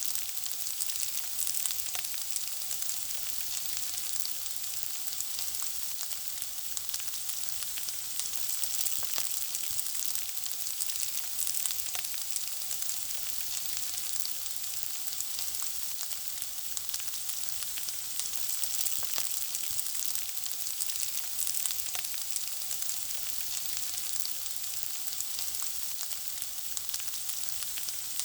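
Food frying in hot oil: a steady, high sizzle dotted with small crackles and pops.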